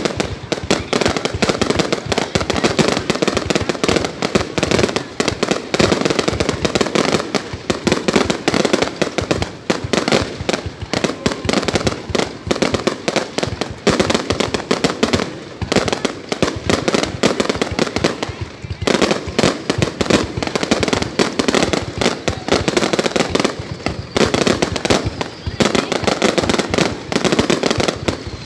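Fireworks going off in a dense, unbroken run of bangs and crackles, with voices underneath.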